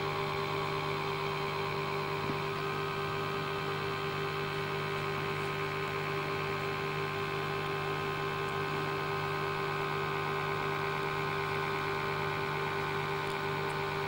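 Steady electrical mains hum and buzz made of several constant tones, with no other sound.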